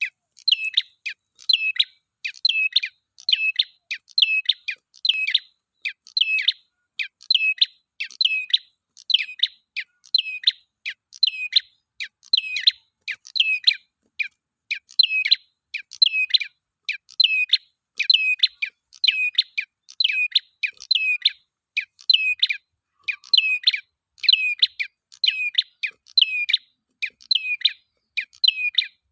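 Red-headed prenjak (a small prinia-type songbird) calling, repeating a sharp, high chirping phrase about twice a second without pause.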